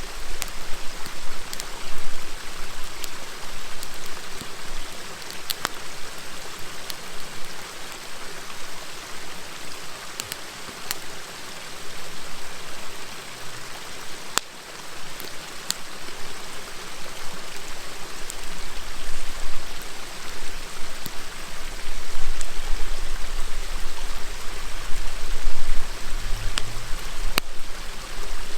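A river murmuring steadily, with a wood campfire crackling over it in sharp, scattered pops and clicks.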